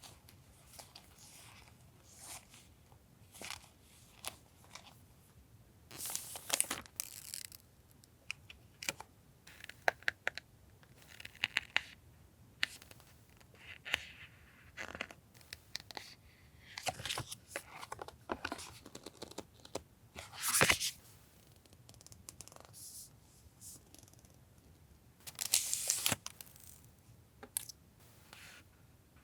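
Paper and plastic stationery packaging being handled at a desk: crinkling, rustling and short tearing sounds with small taps, broken by a few louder rustling bursts.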